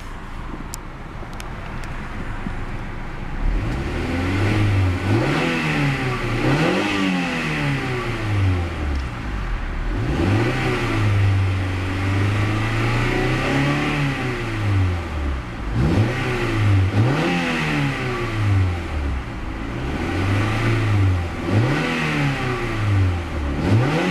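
1999 Honda Prelude's 2.2-litre DOHC VTEC four-cylinder engine idling, then revved in a series of quick throttle blips that rise and fall, with one rev held for several seconds around the middle.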